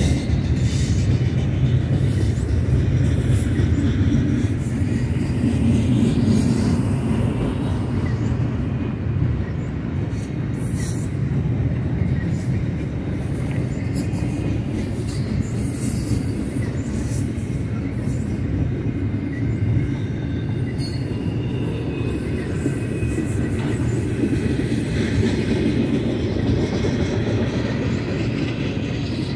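Steady rumble and clatter of a double-stack intermodal container freight train's wheels rolling past on the mainline, with faint wheel squeal now and then.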